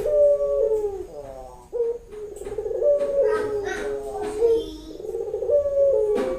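Female ringneck (puter) dove cooing over and over, the call a hen in breeding condition gives to summon a male.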